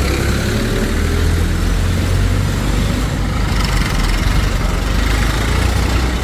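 Diesel engine of heavy machinery running steadily at low revs.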